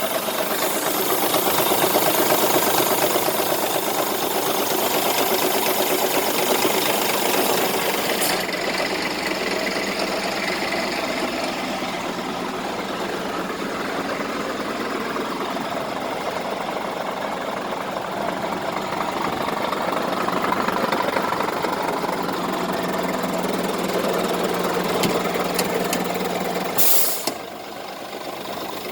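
Scania R 450 tractor unit's 13-litre inline-six diesel engine running steadily. Near the end a short sharp air hiss, after which the sound gets quieter.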